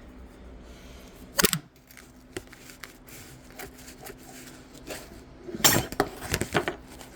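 Kitchen handling sounds of dishes and utensils: a single sharp knock about a second and a half in, then a short burst of clattering and scraping near the end, over a faint steady hum.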